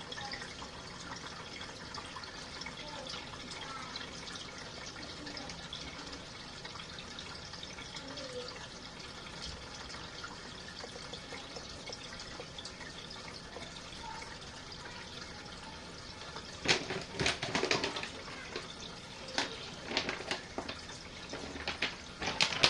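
Small RV washing machine draining: a steady trickle and wash of water. About two-thirds of the way in come a run of loud sharp clattering knocks, with a few more near the end.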